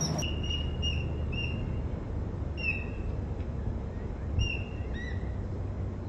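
A bird giving short, high, clear call notes, about eight of them spaced irregularly, over a low steady background rumble.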